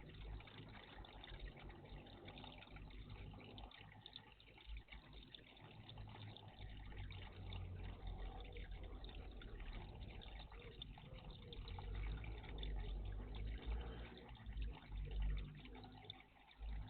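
Water trickling and splashing in a garden birdbath, a steady run of small, irregular splashes and drips.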